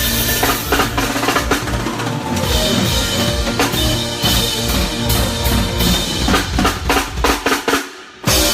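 Live band playing with the drum kit to the fore. It builds into a fill of rapid drum strokes near the end, stops briefly, then a loud hit lands.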